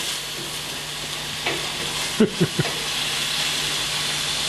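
Chicken livers in red curry sauce sizzling in a wok as they are stir-fried with a wooden spatula, a steady frying hiss.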